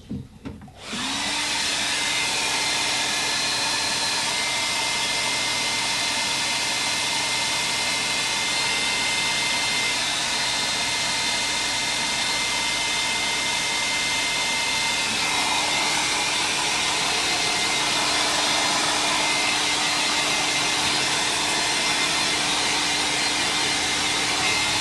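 Hair dryer switched on about a second in and blowing steadily to dry fresh spray paint on an art-journal page, its tone shifting slightly about halfway through.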